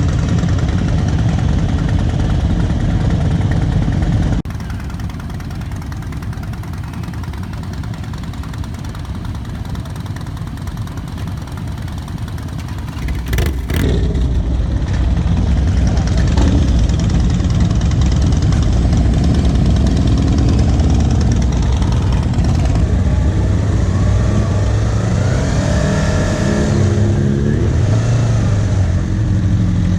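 Sport motorcycle engine running at speed, heard from a bike-mounted GoPro along with wind rush. The level drops suddenly about four seconds in, and in the last third the engine note climbs steadily over several seconds as the bike accelerates, then holds.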